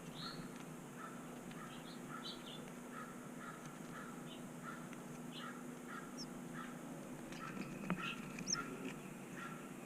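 Birds calling: a short call repeated about twice a second, with brief higher chirps over it. A sharp click comes about eight seconds in.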